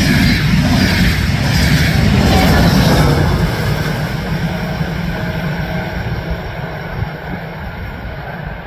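Train passing at the platform: loud rumble and rail noise that fades steadily over the last five seconds as the train moves away.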